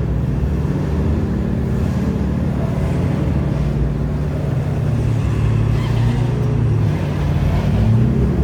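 Car engine running with a steady low rumble, at idle or low revs, with no sharp revving.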